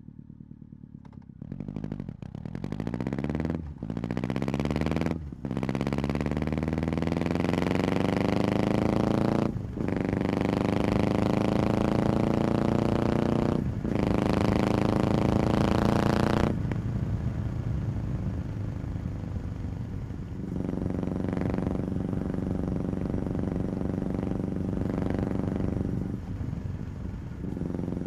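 Motorcycle engine accelerating hard through the gears: the pitch climbs, breaks briefly at each of four upshifts, then the throttle closes a little past the middle and the bike runs on at a steadier, lower note.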